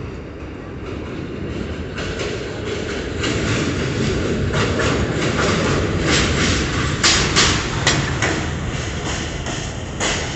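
New York subway train pulling into the station, its rumble growing louder, with wheels clacking over rail joints.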